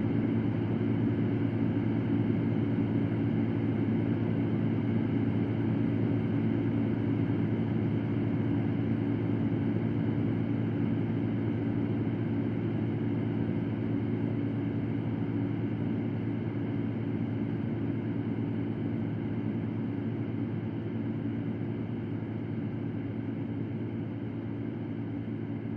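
Electric fan running steadily: a low motor hum under an even rush of air, slowly getting a little quieter across the stretch.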